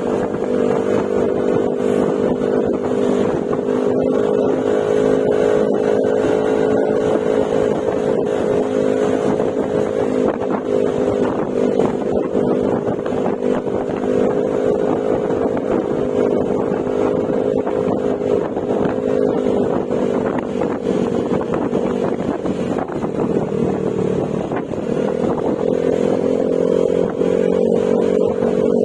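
Yamaha Mio Gravis scooter's single-cylinder engine running at a steady cruise through an aftermarket Akrapovic exhaust with silencer. About 23 seconds in, the note drops as the throttle eases, then climbs back up as it opens again.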